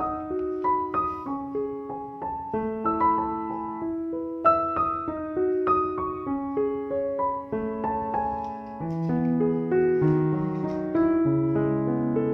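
Background piano music: a gentle melody of single notes over soft chords, with lower bass notes joining about three-quarters of the way through.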